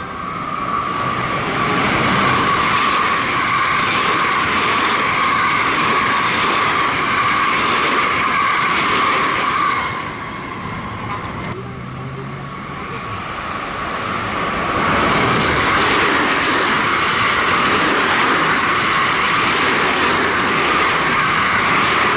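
Electric trains running through a station at speed, with loud rolling wheel-on-rail noise and a steady high ringing. The noise comes in two long passes with a quieter lull between them, from about ten to fourteen seconds in.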